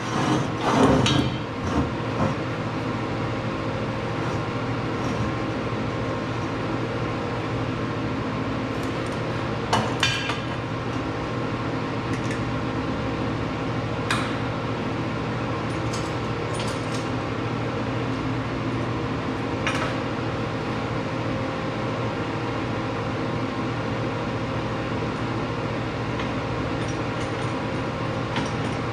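Welding machine running with a steady electrical hum, with a few short, sharp metal clinks.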